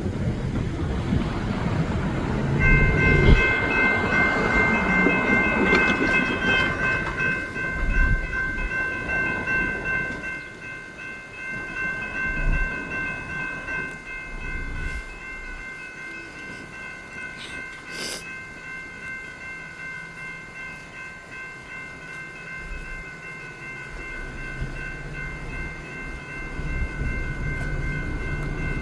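Train noise: a loud low rumble for the first ten seconds or so, then quieter. About three seconds in, a steady high ringing of several tones starts and holds throughout.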